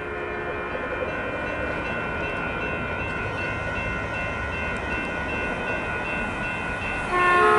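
Caltrain commuter train approaching, its rumble building under the steady ringing of grade-crossing bells. The train's horn sounds loud near the end.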